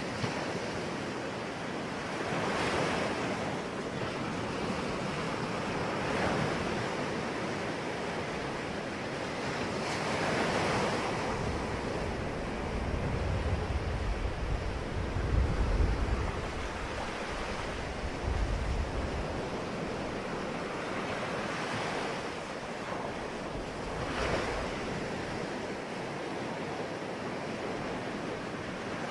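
Sea waves breaking on a shore, the surf swelling and falling back every few seconds. For several seconds in the middle a low rumble rises under the surf, like wind buffeting the microphone.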